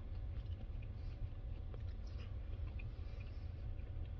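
A person chewing a bite of cooked stuffed chicken breast, with faint, scattered small mouth clicks over a steady low hum.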